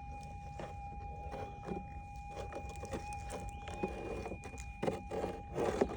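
Minelab GPX 6000 metal detector's steady threshold hum from its speaker, with irregular scuffs as the coil is swept over rocky ground, the loudest two near the end.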